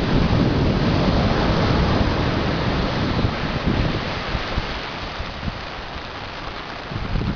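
Heavy storm surf breaking and washing up the beach, loudest over the first few seconds and then easing off, with wind buffeting the microphone.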